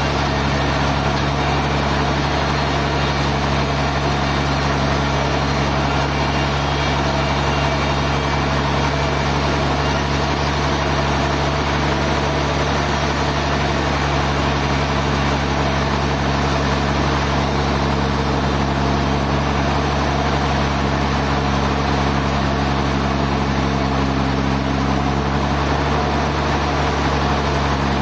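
Sawmill machinery running steadily, an engine-driven drone at a constant speed with a slight shift in tone near the end.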